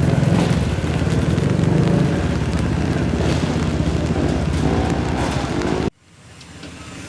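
Off-road vehicle engines running loud, with a few brief rises in revs, cutting off abruptly about six seconds in.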